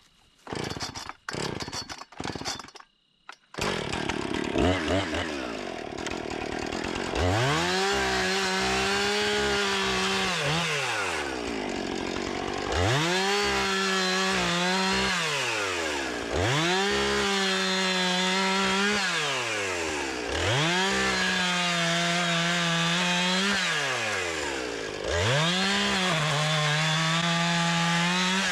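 Two-stroke chainsaw. After a few short bursts at the start, it runs at idle, then is throttled up to full speed five times. Each burst holds for about three seconds before dropping back, and the pitch sags slightly while held, as when the chain is under load in wood.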